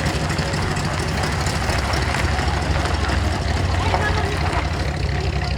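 Car engine idling or running slowly with a steady low rumble.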